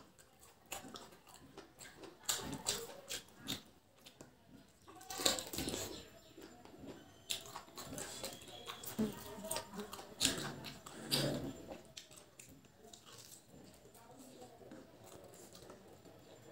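Close-up eating sounds: wet chewing and lip smacks as mutton curry and rice are eaten by hand, with irregular clicks and squelches.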